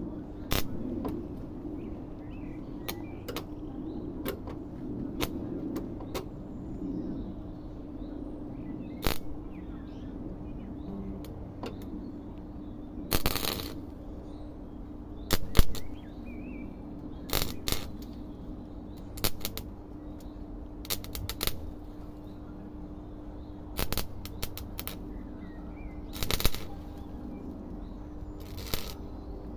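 Welder tack-welding car body sheet metal: short crackling bursts every second or two, some a brief snap and a few about half a second long, over a steady electrical hum.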